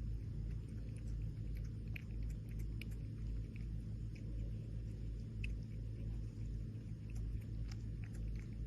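A cat eating, with small irregular clicks of chewing and mouth sounds over a steady low rumble.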